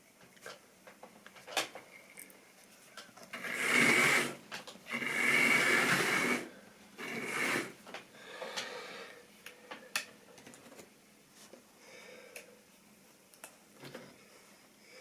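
Model railway train running on the track, loudest as it rumbles past twice in quick succession about four to six seconds in, with sharp clicks of wheels over rail joints.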